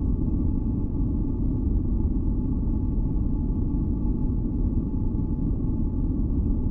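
Steady, deep rumbling noise weighted toward the bass, with faint held tones above it: a continuous masking-noise track made for sleep and tinnitus relief.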